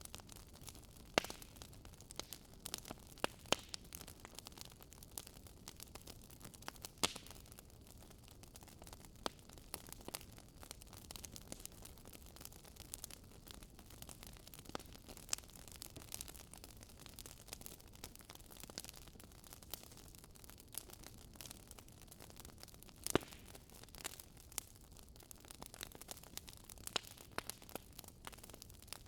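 Firewood burning in a fireplace, crackling with irregular sharp pops and snaps over a faint steady hiss; a few pops stand out louder, the sharpest a little over twenty seconds in.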